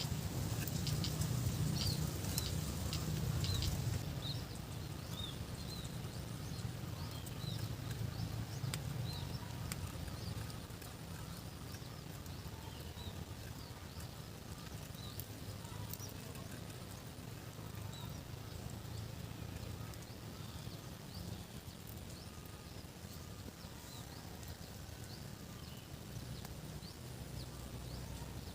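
Outdoor rural ambience: a steady low rumble, louder for the first few seconds, with small birds chirping throughout and occasional clicks.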